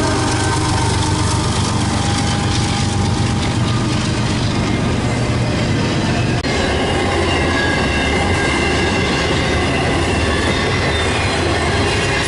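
Train rolling past close by: steady wheel-and-rail noise, wheels clicking over rail joints, and thin wheel squeal that shifts in pitch. The sound drops out briefly about halfway through.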